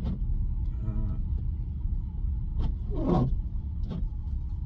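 Steady low road and tyre rumble inside a Tesla's cabin while driving on a snowy road, with a few short clicks and one brief falling sweep about three seconds in.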